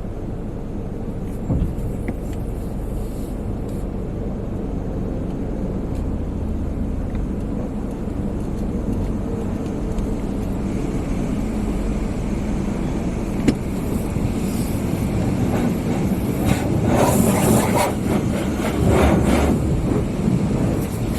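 Sonny's tunnel car wash equipment heard from inside the car. There is a steady low rumble throughout, and from about two-thirds of the way in, irregular surges of spray and washing equipment grow louder against the car.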